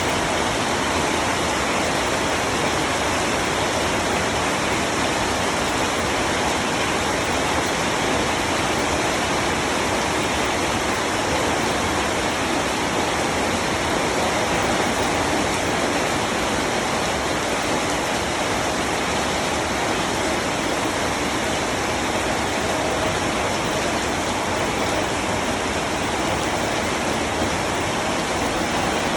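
Rain falling steadily: an even, unbroken rush of water that does not change in strength.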